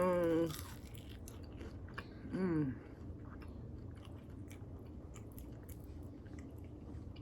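A person chewing mouthfuls of lemon pepper chicken wings, with many small wet mouth clicks and smacks. There is a short wavering hum right at the start and a falling hum about two and a half seconds in.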